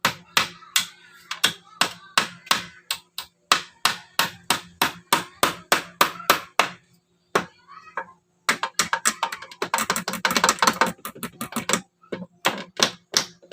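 Hammer blows, about three a second. About halfway through there is a short pause, then a couple of seconds of faster, denser knocking, and then single blows resume.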